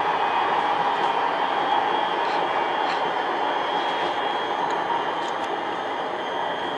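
Brand-new 13T low-floor tram running between stops, heard from inside the car: a steady rolling and motor noise with a faint high whine and a few light clicks. The noise eases slightly in the second half.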